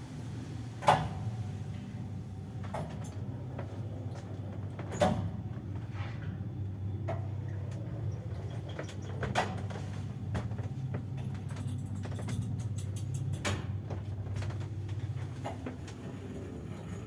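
Passenger lift with a loud, worn reduction gearbox in operation: a steady low hum with sharp mechanical clicks and knocks every few seconds, the loudest about a second in, and a spell of fast light ticking about twelve seconds in.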